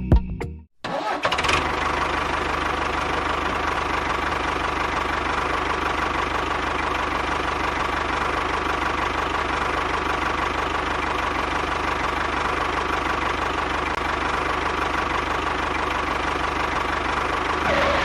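A motor running steadily, starting just under a second in with a brief rise and cutting off near the end.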